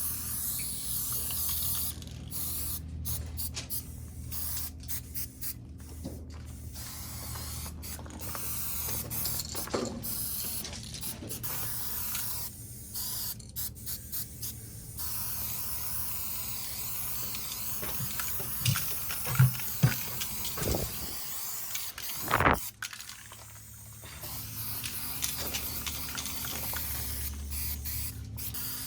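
Aerosol spray paint cans hissing in repeated bursts with short breaks between them. A few louder knocks and clicks come about two-thirds of the way through.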